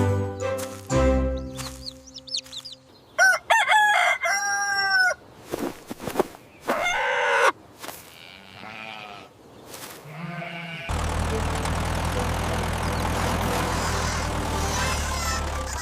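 Music at first, then a rooster crowing, and from about eleven seconds in a steady engine running.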